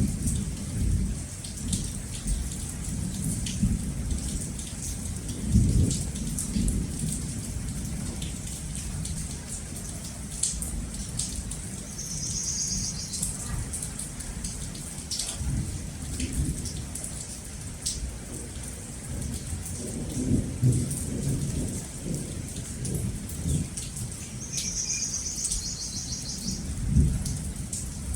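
Steady heavy rain with low thunder rumbling that swells and fades several times. A short high trill sounds twice, near the middle and near the end.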